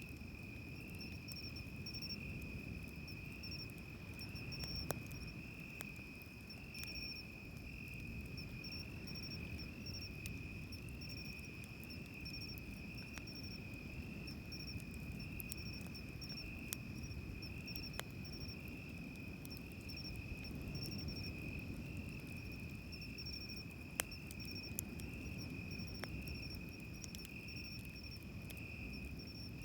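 Crickets chirping in a steady, pulsing high trill over the low wash of surf, with occasional sharp crackles from a wood campfire.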